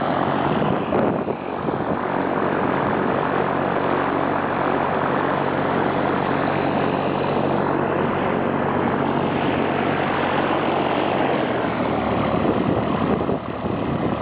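Propeller airplane engine running steadily, its low drone shifting in pitch about three-quarters of the way through.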